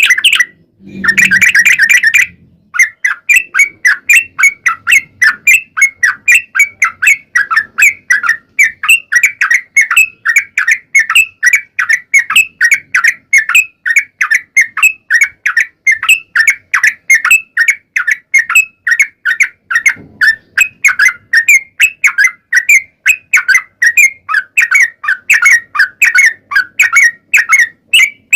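Yellow-vented bulbul (trucuk) call track: a short dense burst of song about a second in, then a long, even run of quick chirping notes, about four a second.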